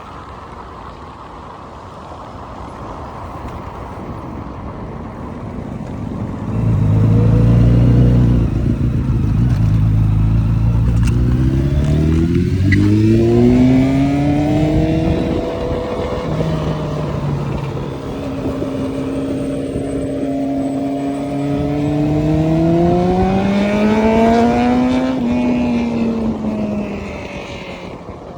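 Motorcycle engine accelerating hard. It comes in about six seconds in, its pitch climbing and dropping back at each gear change, then fades near the end. Steady wind rush from riding at speed runs underneath.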